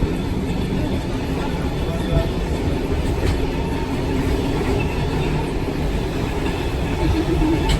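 Heritage train running along the track: a steady low rumble of wheels on rails and carriage noise.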